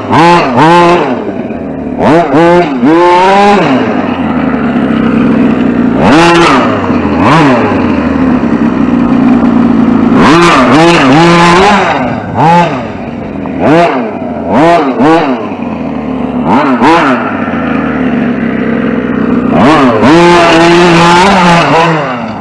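RC short-course truck's motor revving in repeated throttle bursts, about a dozen in all, each rising and then falling in pitch, as the truck is driven in short spurts.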